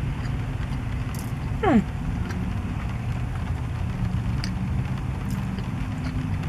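Steady low hum of a car's idling engine heard inside the cabin, with scattered light ticks and one short falling squeak about two seconds in.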